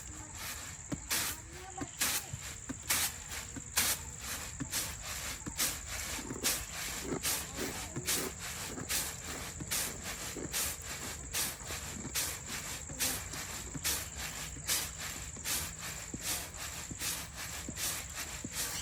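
Crickets or similar insects keep up one steady high trill. Sharp clicks stand out over it at irregular intervals, about one or two a second.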